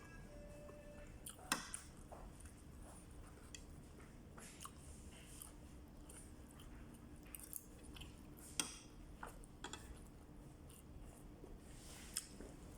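Quiet eating sounds: chewing, with scattered small clicks and taps, two of them sharper about a second and a half in and past the middle, over a faint steady hum.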